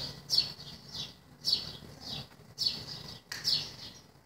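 A small bird chirping over and over: short, high calls that slide down in pitch, about one a second.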